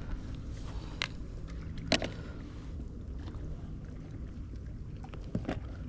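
Steady low rumble with a sharp click about a second in and another about two seconds in.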